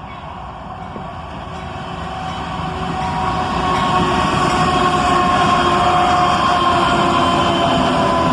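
Diesel-electric locomotives leading a CSX double-stack intermodal freight train approaching. The sound grows steadily louder over the first four seconds, then holds at full level with a rumble and steady whining tones.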